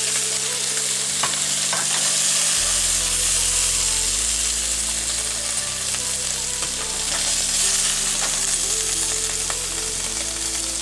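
Marinated chicken pieces sizzling in hot oil in a pan over a high flame, stirred and scraped with a utensil, with a few light clicks.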